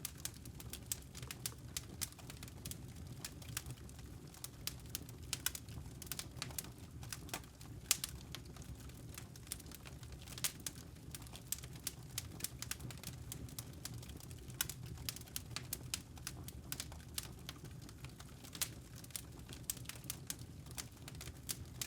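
Crackling campfire: burning wood logs popping and snapping at irregular moments over a low, steady rumble of flame.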